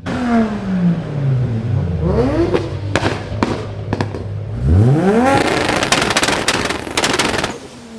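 A performance car engine being revved: the pitch falls away, blips up briefly, then climbs in a big rev about halfway through and holds with rapid exhaust crackles and pops before dropping off shortly before the end.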